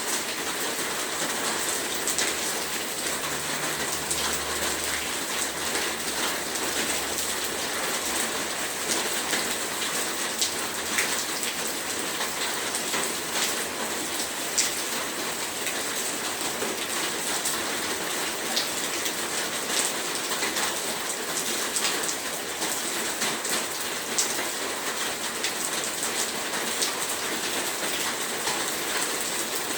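Heavy rain falling steadily, an even dense hiss with many individual drops ticking sharply on a surface. A faint low rumble sits under it for a few seconds near the start.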